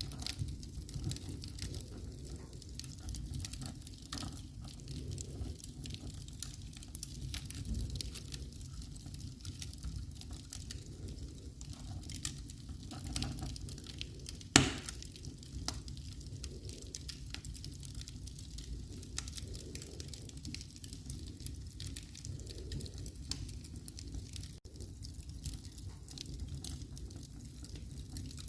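Wood fire in a fireplace crackling with many small snaps over a low rumble, and one loud pop about halfway through.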